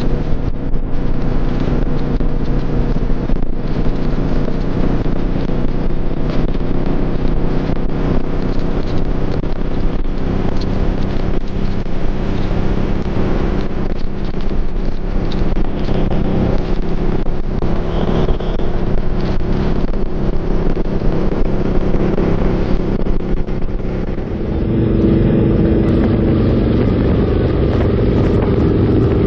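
Suzuki Boulevard C50's V-twin engine running steadily as the motorcycle is ridden, with wind rushing over the microphone. About 24 s in, the wind noise drops and the engine note comes through more clearly.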